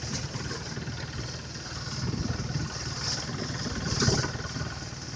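The engine of a 'blower' rice-threshing machine running steadily, swelling louder about two and four seconds in.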